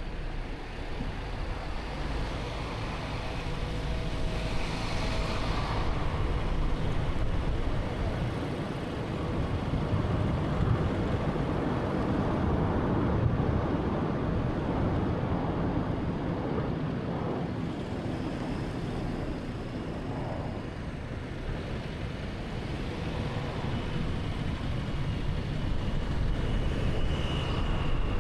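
Road noise of a 2013 Honda Fit with a 1.3-litre engine on the move: a steady rush of tyres, wind and engine hum that swells and eases as the drive goes on.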